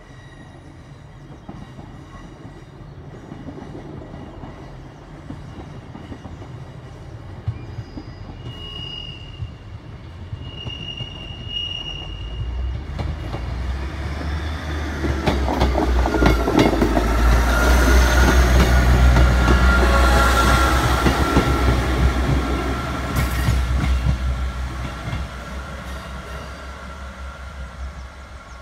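Class 158 Express Sprinter diesel multiple unit 158792 passing slowly close by. The low diesel rumble builds to a peak as it goes past and then fades, with the wheels clicking over rail joints and pointwork. Brief high wheel squeals come before it arrives and during the pass.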